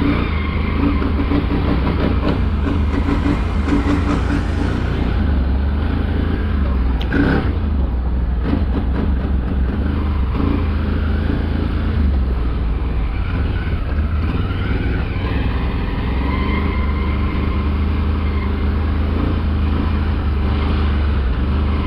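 Motor vehicle engine running steadily with a low rumble, with a brief knock about seven seconds in.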